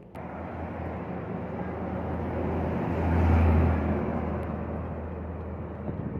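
Heavy diesel truck engine running, with a low hum and road noise that start abruptly, grow louder to a peak a little past the middle and then ease off.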